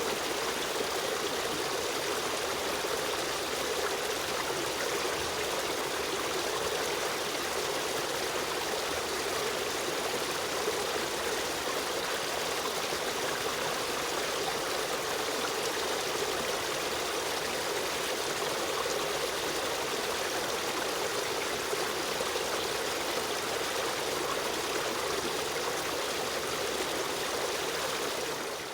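River stream running steadily, an even rush of flowing water with a trickling edge.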